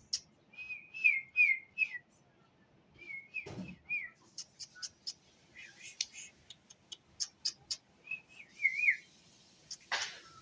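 Short warbling whistled notes in quick runs of three or four, with sharp high lovebird chirps between them and one loud click near the end.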